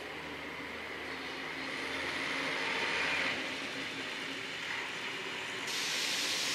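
Railway noise: the steady rumble and hiss of a train, swelling after about two seconds. A louder, sharper hiss sets in suddenly near the end.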